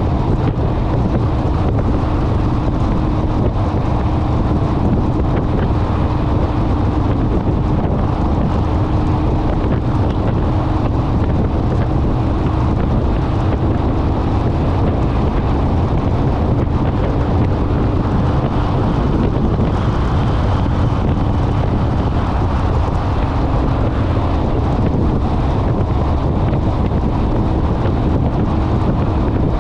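Heavy wind rushing over the microphone of a motorcycle cruising at steady speed, with the engine's steady drone underneath.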